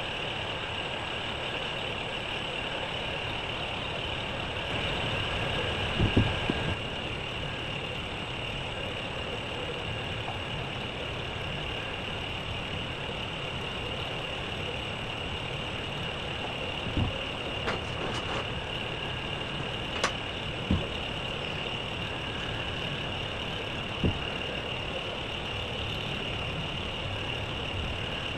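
A workshop machine running steadily with a high whine, with a few sharp knocks through the middle and later part.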